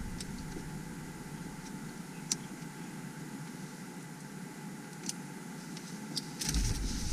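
Steady low hum inside a car cabin, with a few faint clicks, and a low rumbling bump near the end.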